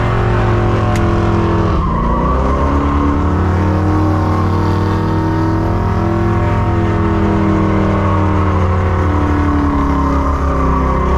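Holden HQ Monaro's engine held at high revs during a skid, with tyre squeal. The revs dip sharply about two seconds in, then climb back and hold.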